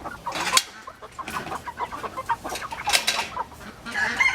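Meat chickens clucking as they are herded into a pen, with several short sharp rustles among them.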